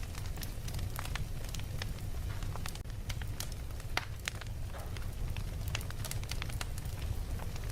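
Fire crackling, with irregular sharp snaps and pops over a steady low rumble.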